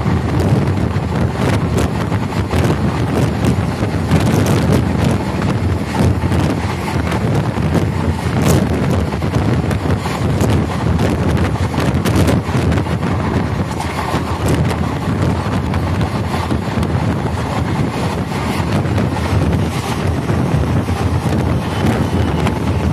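Indian Railways express train running at speed, heard from the coach's open door: a steady rumble of wheels on the track with scattered clicks and knocks, and wind buffeting the microphone.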